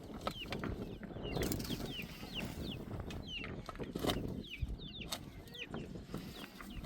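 Chickens calling: many short, high, falling chirps, several a second, with a few sharp clicks over a low rumble.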